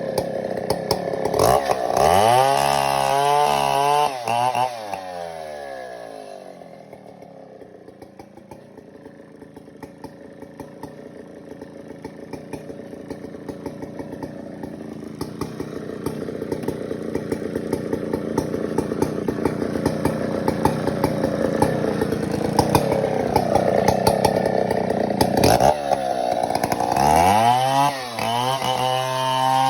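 Chainsaw revving up and down, then settling into a long cut through breadfruit timber under load, getting gradually louder as the cut goes on. Near the end it revs freely again.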